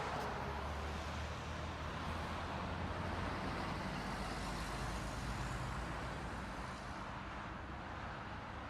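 Steady road and engine noise of a moving motor vehicle, with a low hum under it, easing off a little near the end.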